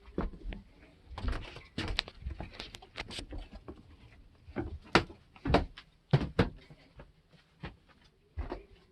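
Irregular knocks and thumps of people moving about inside a small boat cabin, such as doors and fittings being handled and feet on the floor. The sharpest knocks come about five and six seconds in.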